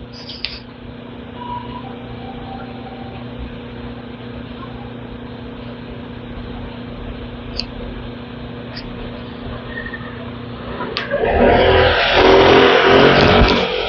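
A steady low mechanical hum. About eleven seconds in, a loud rushing rumble swells up and lasts about three seconds.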